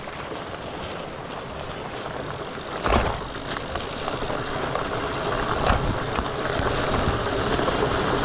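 Steady rush of flowing creek water mixed with a fat bike's tyres rolling over rocks, with a single knock about three seconds in and the noise growing louder toward the end.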